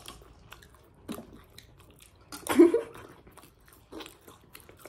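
Close-up eating sounds: chewing with scattered small crunches and mouth clicks, and one louder burst about two and a half seconds in.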